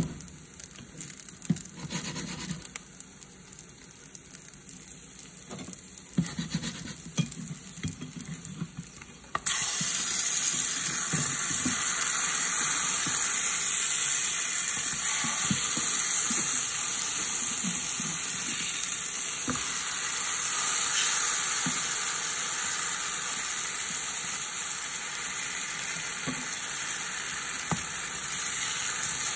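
Pancakes frying in a nonstick pan, with a spatula scraping and tapping the pan. About nine seconds in, a steady loud sizzle sets in suddenly and carries on, with an occasional spatula tap.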